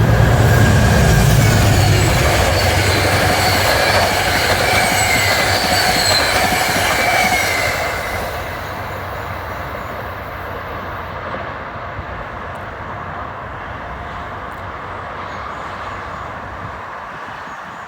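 Diesel-hauled commuter train going through the station: a heavy engine rumble at first, with high steel-wheel squeal over the rail noise. The squeal stops about eight seconds in, and the rolling noise eases off as the train moves away.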